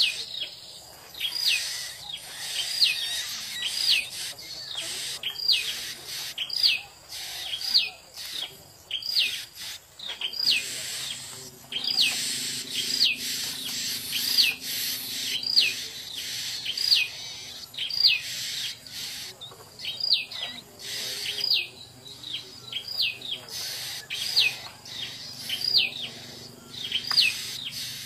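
A small songbird repeating a short, high, clear call that drops in pitch, at an even pace of a little more than one call a second.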